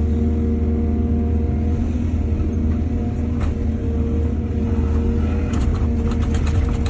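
Excavator engine running steadily at a constant pitch, with a run of light clicks and rattles in the last second and a half.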